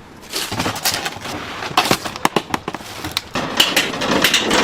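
Chicken deep-frying in hot oil, with a run of irregular sharp pops and crackles over a steady sizzle.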